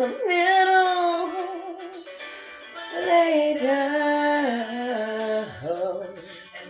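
A woman's voice singing two long wordless phrases, holding notes with a slight waver.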